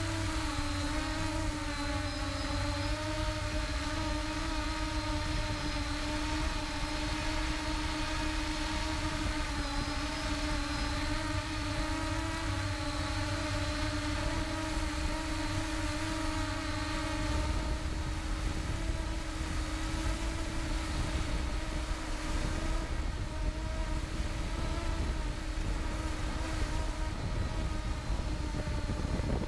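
Engine running steadily with a constant drone, its pitch shifting slightly about halfway through, over a low rumble.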